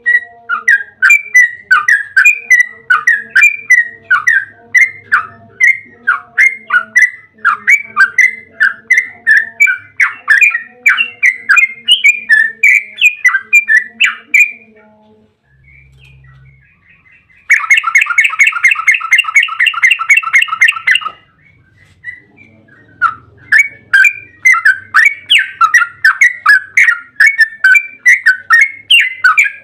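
Yellow-vented bulbul (trucukan) singing a long rapid chattering song of quick repeated notes. After a short break about halfway, a dense buzzy trill lasts a few seconds, and then the quick chatter resumes.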